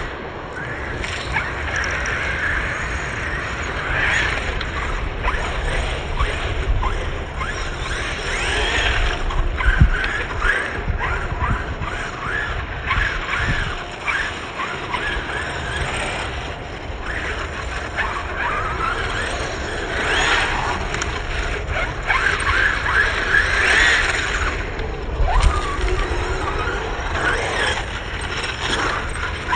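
Radio-controlled car's electric motor whining in repeated surges as it speeds up and slows, over wind noise on the microphone.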